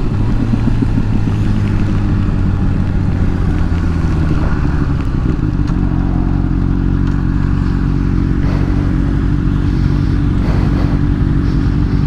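Motorcycle engine running steadily while riding at an even speed, heard from the rider's helmet, with a steady hiss of wind and rain over it.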